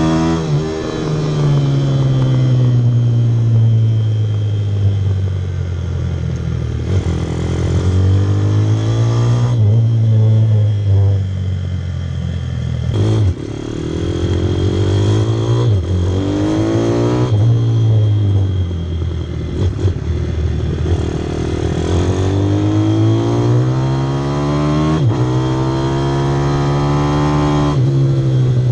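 Pit bike engine being ridden hard, its pitch climbing and falling again and again as it accelerates and backs off, with several sudden drops and jumps in pitch.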